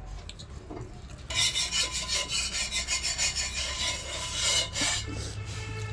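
A rasping, scraping rub, starting about a second in and pulsing unevenly for about three and a half seconds before stopping.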